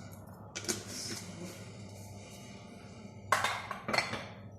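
Kitchen handling noises while seasoning chicken: a short clatter with a brief ring about two-thirds of a second in, then a louder rattle about three seconds in, over a steady low hum.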